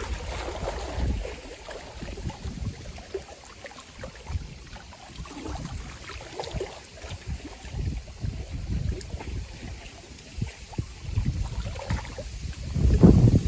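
Strong gusty wind buffeting the microphone over lake water lapping at the shore, with the strongest gust near the end.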